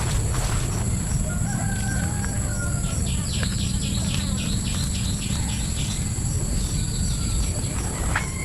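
A rooster crowing in one long call, followed by a quick run of short high chirps, over a steady low rumble.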